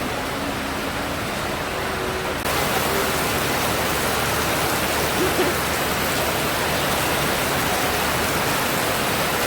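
Heavy monsoon downpour: a steady, even hiss of rain falling, which gets louder about two and a half seconds in.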